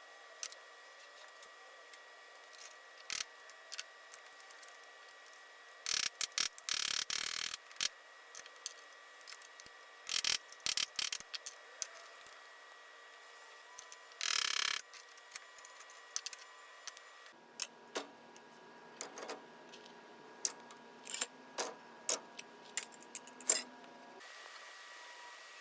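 Small metal parts of an antique coffee grinder being handled: scattered light clicks and clinks, with two short bursts of scraping and rattling, one about six seconds in and one near the middle.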